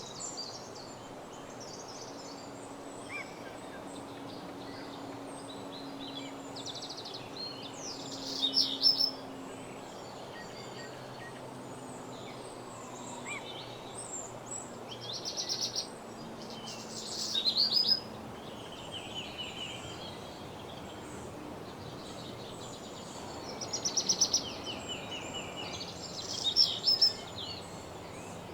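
Several songbirds singing in woodland, short phrases and chirps overlapping. The loudest are quick rapid-fire trills about nine, seventeen, twenty-four and twenty-seven seconds in, over a steady faint hiss.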